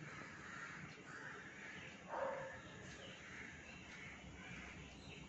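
Faint bird calls, with one louder, harsh call about two seconds in.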